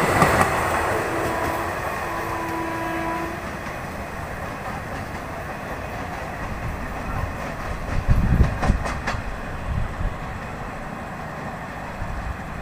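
Express train running past at speed and moving away, its wheels clattering as the noise fades over the first few seconds. A faint horn sounds early on, and a few low thumps come about eight seconds in.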